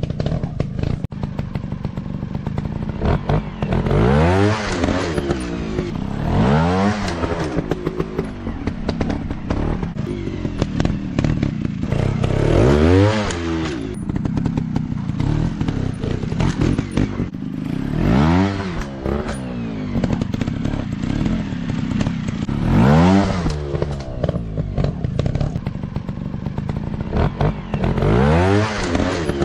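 Dirt bike engines revving up and down over and over, the pitch climbing and dropping every few seconds as the riders open and close the throttle. Clattering knocks come in between.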